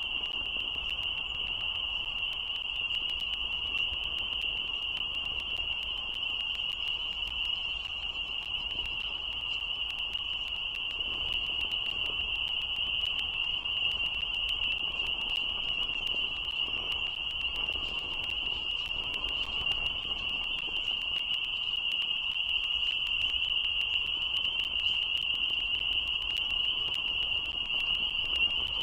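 A dense chorus of frogs: a steady, unbroken high-pitched shrill, with a faint low rumble underneath.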